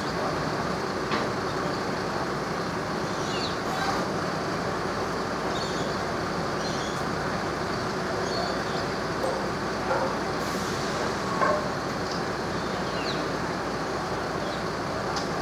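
Steady engine rumble with no change in pitch, with a few faint high chirps over it.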